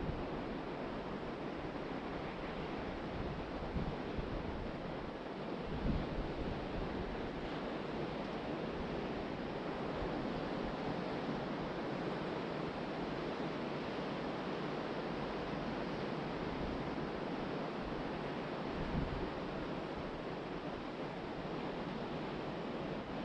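Ocean surf washing steadily onto the beach, with wind blowing across the microphone and low buffeting thumps from gusts about six seconds in and again near the end.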